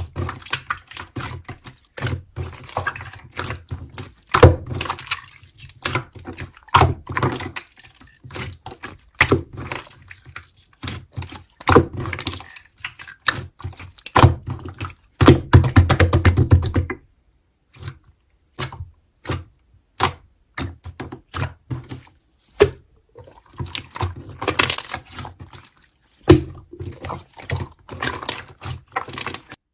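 Clear slime being squished and pressed by hand, giving irregular sticky clicks and wet pops. They come thickest in a dense run of squelching near the middle, then fall sparser after a short pause.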